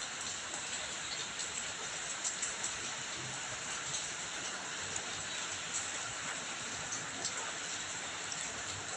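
Steady rain falling, with many small drop impacts ticking over an even hiss.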